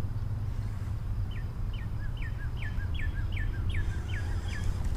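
A songbird singing a run of about nine quick, evenly spaced down-slurred notes, over a steady low rumble.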